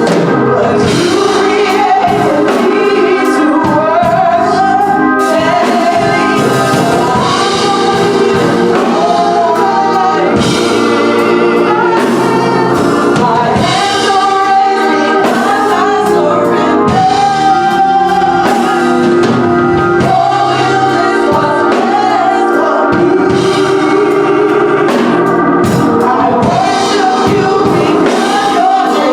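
Gospel singing with instrumental accompaniment: voices carry a melody over sustained chords.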